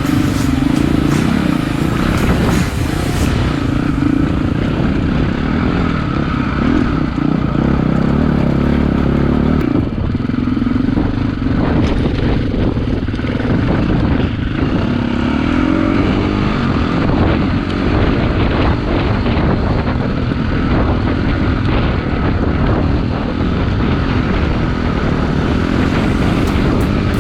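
KTM EXC-F four-stroke single-cylinder dirt bike engine running under way on a trail ride, its revs rising and falling.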